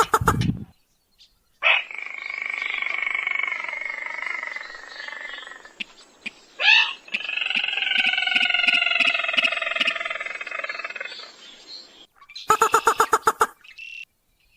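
Rail or crake calls played as a hunting lure: two long, slightly wavering calls of about four and five seconds, then a quick run of rapid notes near the end.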